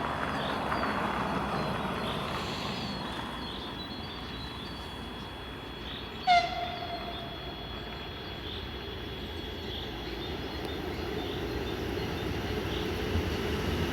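A train whistle gives one short, loud toot about six seconds in, over a steady rumble that grows louder toward the end as the VL10 electric locomotive and its freight wagons approach.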